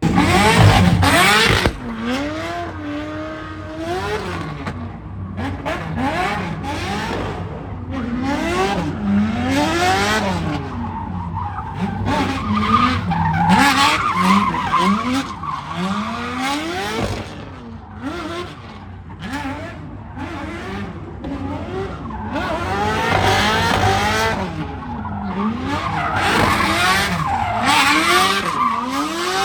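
Performance car engines revving hard up and down over and over while the tyres squeal and skid, as in drifting or a burnout.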